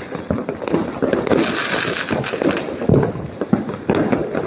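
Firecrackers and fireworks going off all around, a dense run of overlapping cracks and pops with no let-up.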